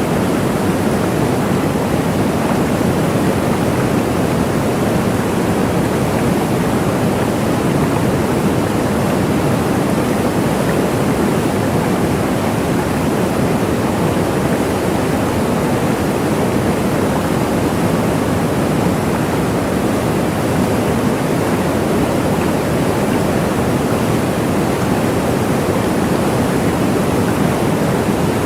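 Waterfall: water falling and splashing in a steady, unbroken rush, fullest in the low and middle range.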